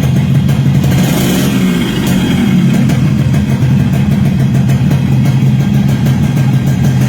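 Yamaha RXS 115's two-stroke single-cylinder engine running at a steady idle, with a slight rise in revs about a second in.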